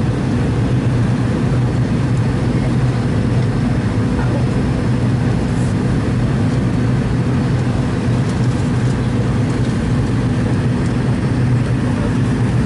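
Cabin noise inside a McDonnell Douglas MD-82 (Super 80) jet airliner: its rear-mounted Pratt & Whitney JT8D turbofans running steadily, a loud constant rushing noise over a low, steady hum.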